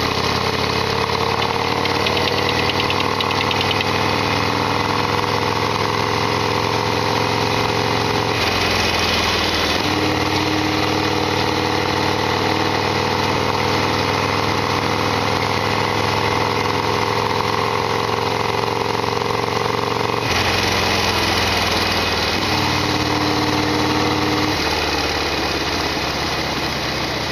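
Harley-Davidson Sportster XL1200R's air-cooled V-twin engine running steadily, its note drifting in pitch and changing abruptly a few times.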